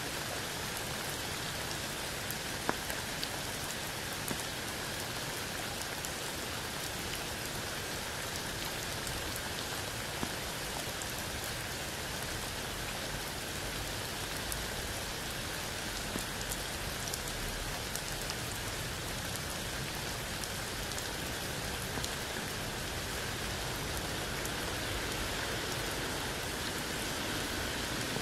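Steady rain falling under a tree and onto wet ground and a puddle: an even hiss of rain with a few single, louder drops ticking out, near 3 s, 4 s and 10 s.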